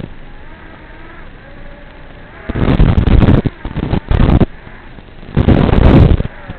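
Gusts of wind buffeting the microphone in loud, rumbling blasts, three times. In the calmer first couple of seconds a faint whine wavers up and down.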